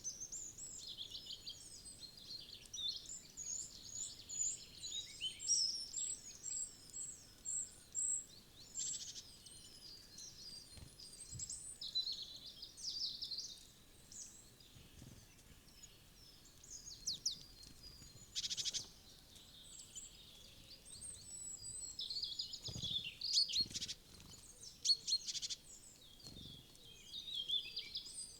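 Several small woodland birds chirping and calling in quick, overlapping high notes, with a run of repeated short notes in the first few seconds and a quieter spell in the middle. A few soft low knocks sound in the second half.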